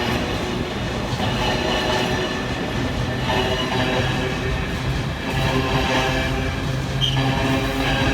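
A train running through the station with wheels clattering over the rails and a steady low hum underneath.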